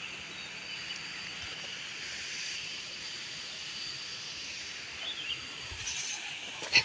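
Forest ambience: a steady high hiss of insects buzzing with a faint steady tone through it, a few short bird-like chirps about five seconds in, and a sharp click at the very end.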